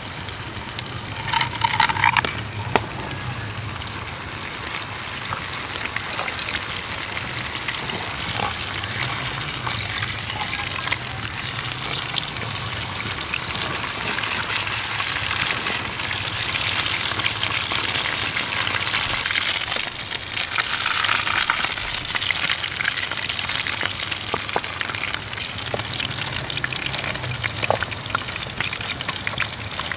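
Food sizzling as it fries in a pan, a steady crackling hiss with scattered pops, over the rush of a running creek.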